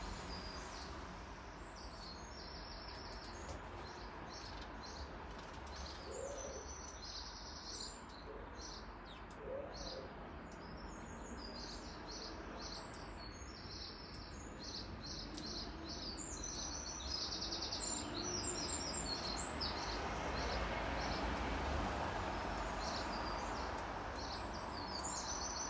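Small songbirds chirping, with many short high chirps and quick trills throughout, over a steady background rush of noise that grows a little louder in the second half.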